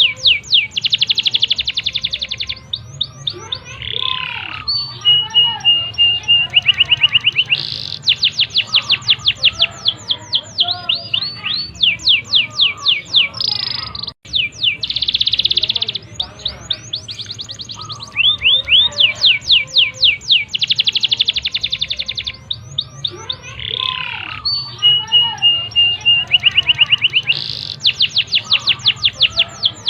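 Domestic canary singing a long, fast song of rapid trills of repeated sweeping notes, a held steady whistle and buzzy rolls. There is a brief break about halfway through, after which the same passage starts over.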